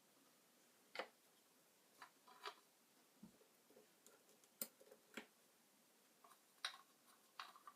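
Faint, irregular clicks and light taps, about eight of them spread unevenly, against near silence.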